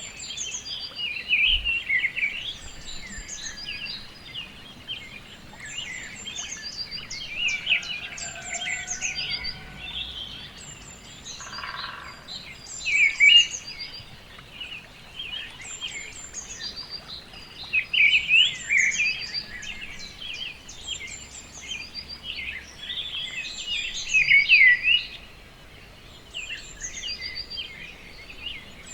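A chorus of songbirds chirping and singing, many short calls and trills overlapping without a break.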